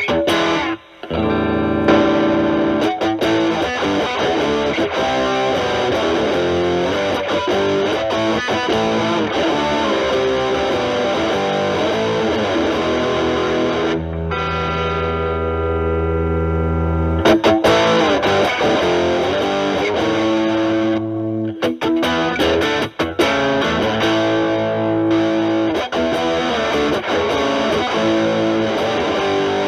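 Fender Stratocaster with single-coil pickups played through a Proco RAT2 distortion stacked with an Ibanez TS9 Tube Screamer, its gain at 10 o'clock, into a Marshall Valvestate amp: heavily distorted electric guitar lead playing. It breaks off briefly about a second in, and a chord is let ring for about three seconds about halfway through.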